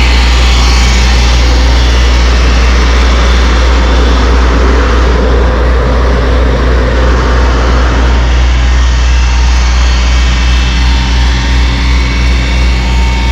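Pumper trucks' engines and pumps running with a loud, steady low drone. A rushing hiss on top fades out about eight seconds in.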